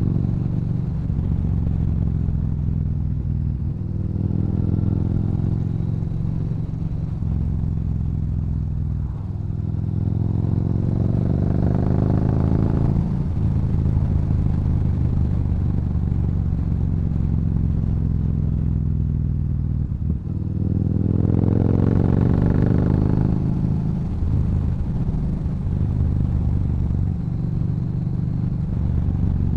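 Yamaha Bolt's air-cooled V-twin running through a Cobra exhaust while cruising at a steady pace, with two pulls where the engine revs rise under acceleration, about a third of the way in and again past two-thirds.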